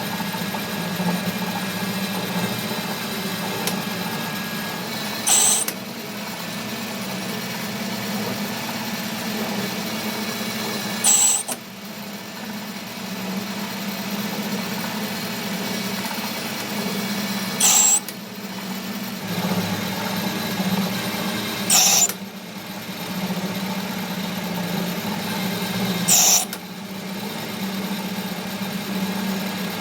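A power tool's motor runs steadily as a low hum. A short, loud, high-pitched burst cuts in about every four to six seconds, six times in all.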